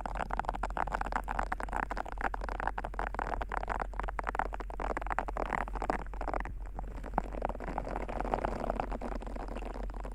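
Ear pick scraping and rubbing close to the microphone, making a dense, continuous crackling scratch that briefly thins after about six seconds, over a steady low hum.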